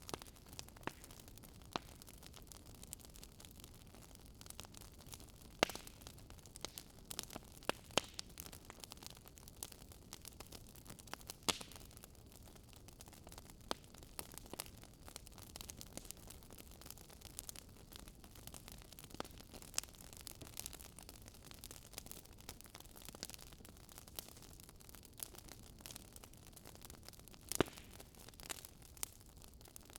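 Wood fire crackling: irregular sharp pops and snaps of burning logs, a few louder ones, over a faint steady hiss of flame.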